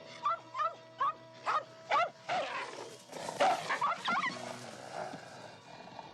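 A small dog yapping in a rapid run of short, high yelps over background music. The yelps come thickest in the first two seconds and again around three to four seconds in.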